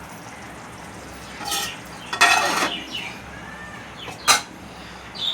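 A spoon stirring and scraping through chicken koftas frying in masala in a kadhai, over a steady sizzle. There are three scrapes; the longest and loudest comes about two seconds in.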